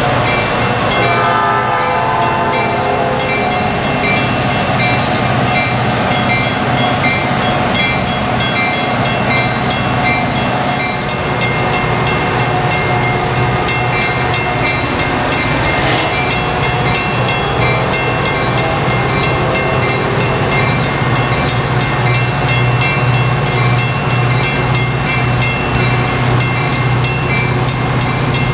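A train running close by, its diesel locomotive giving a steady low drone, with a short horn blast about a second in.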